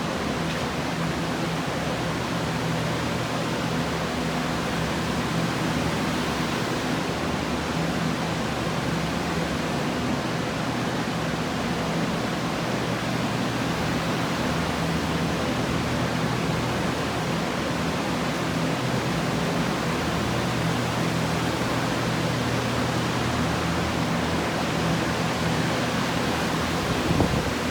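Restoration drying equipment (air movers) running steadily: a constant rush of blown air over a low motor hum.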